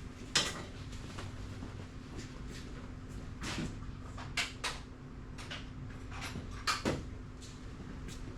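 Scattered clinks and knocks of steel drum-brake parts and hand tools being handled during brake reassembly, the sharpest about half a second in and a close pair near the end, over a steady low hum.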